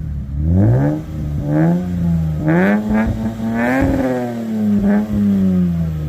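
Lexus IS200's 2.0-litre straight-six engine revved in about five quick throttle blips, the revs rising and falling each time, with a longer, higher blip near the middle. The blips are given to show the engine is healthy.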